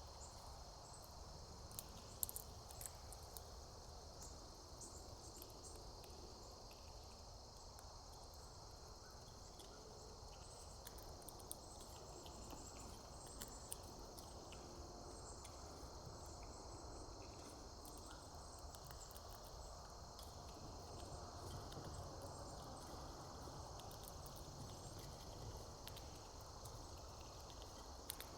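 Faint, steady, high-pitched chorus of insects chirring, with scattered small clicks and ticks.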